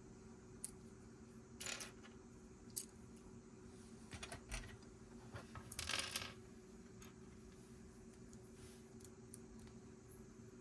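Loose Lego plastic pieces being handled: a few sharp clicks and short clatters of small parts, the longest clatter about six seconds in, over a faint steady hum.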